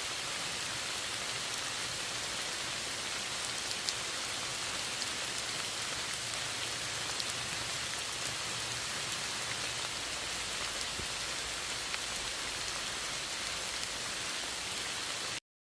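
Steady rainfall with scattered louder individual drops ticking, cutting off abruptly near the end.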